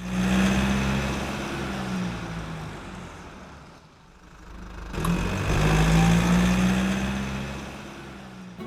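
A car engine running with a steady low note, loud at first and fading away, then a second burst of engine sound after a sudden cut about five seconds in that swells and fades again.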